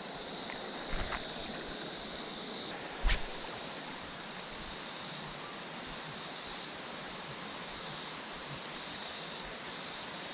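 Creek water running steadily, with a high steady hiss over it that drops off after about two and a half seconds, and a single sharp knock about three seconds in.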